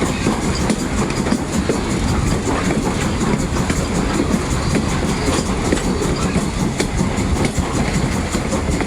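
A train running along the track: a steady rumble with fast, continuous clicking of wheels on the rails.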